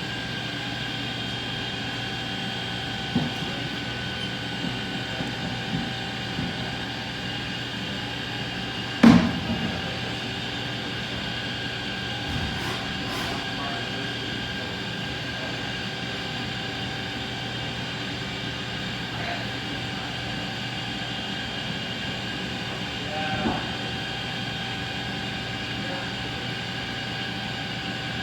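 Haas DS-30SSY CNC lathe running with a steady machine hum and several steady whining tones, broken by a few short knocks, the loudest about nine seconds in.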